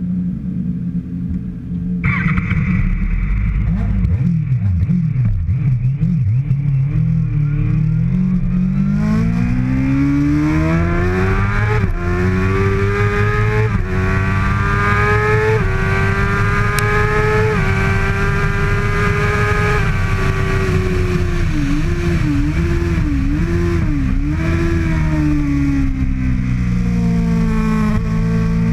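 2013 Kawasaki ZX-6R 636 inline-four engine at racing speed, starting abruptly about two seconds in, then accelerating hard with the pitch climbing and dropping back at each upshift. The pitch then holds, wavers quickly up and down, falls off and climbs again near the end.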